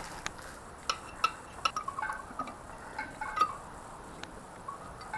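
Scattered light metallic clinks and taps from hand tools on small engine parts, a dozen or so short sharp knocks, some with a brief ring, during bolt removal on a motorcycle cylinder head.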